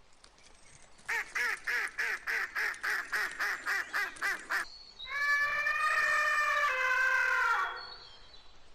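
A quick run of about fourteen short animal calls, about four a second, then one long steady call that drops a little in pitch near its end.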